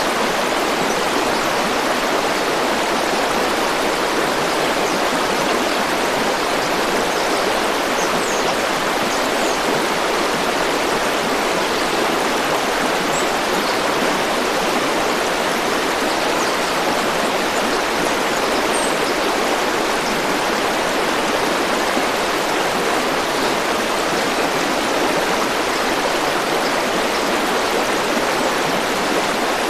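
A river or stream flowing, a steady, even rush of water with no change in level.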